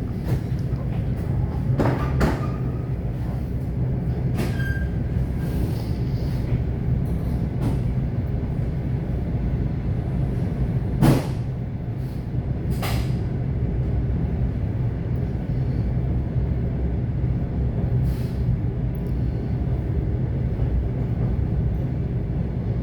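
ET2 electric multiple unit running between stations, heard from inside a passenger car: a steady low rumble with a few sharp clicks, the loudest about eleven seconds in.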